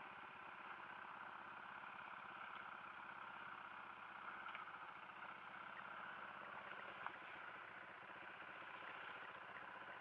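Dirt bike engine idling steadily and faintly.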